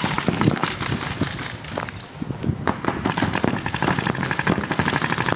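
Airsoft guns firing in quick runs of sharp snapping shots, the later run fast and evenly spaced like full-auto fire.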